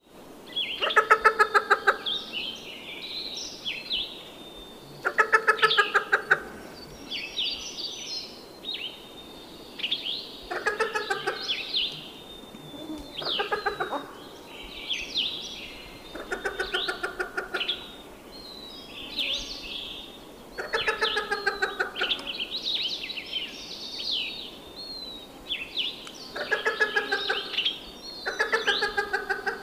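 Birds calling: a rapid, pulsed rattling call of about a second repeats about eight times, every three to five seconds, over continuous higher chirping and whistling.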